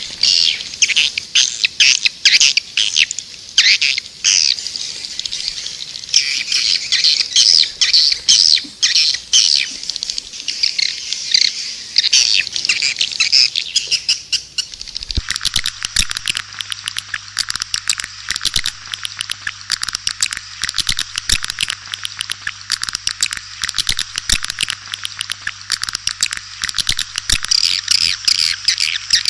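Swiftlets twittering in a dense, continuous stream of rapid high chirps, as played from a swiftlet lure call recording. About halfway through, the recording changes, and a low steady hum sits under the chirps.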